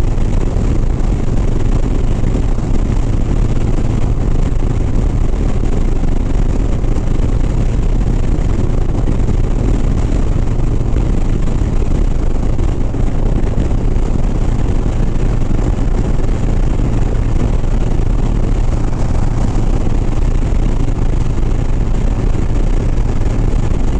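Harley-Davidson Sport Glide's V-twin engine running at steady highway cruising speed, mixed with a constant wash of wind and road noise.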